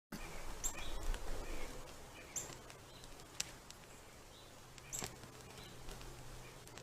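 Faint outdoor ambience with a small bird chirping about every two seconds, short high calls, and a few sharp clicks in between.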